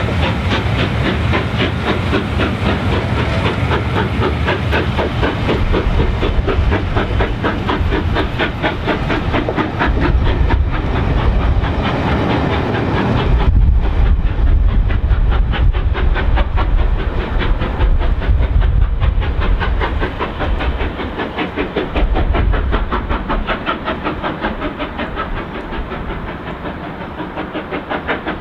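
Steam-hauled passenger train passing: a rapid rhythmic clatter of the coaches' wheels on the rails over a low rumble, with steam hiss from the locomotive. The sound eases off over the last several seconds as the last coaches draw away.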